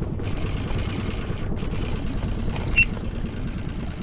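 Small fishing boat's motor running steadily underway, a low rumble with water and wind noise. A single short, sharp clink rings out near the end.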